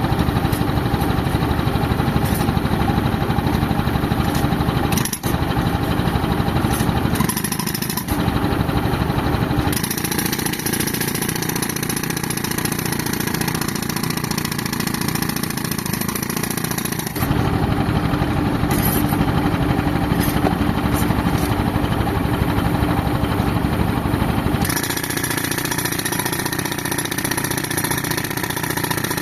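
Tractor engine running an air compressor, with a pneumatic breaker hammering on a reinforced concrete beam. The sound is continuous and changes abruptly several times as the hammering shifts.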